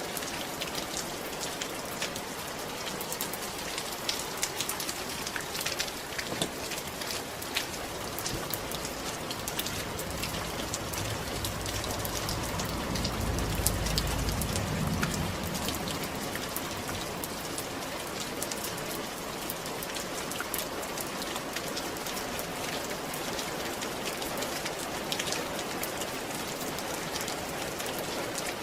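Steady rain falling on a roof, a continuous patter with many individual drops ticking sharply. A low rumble swells and fades about halfway through.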